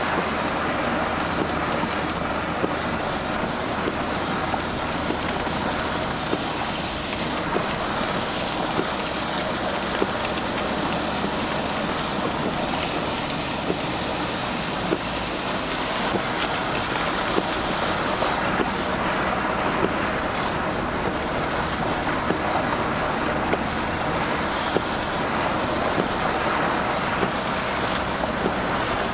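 Storm runoff rushing down a flooded country lane: a steady, loud torrent of water, with occasional sharp ticks.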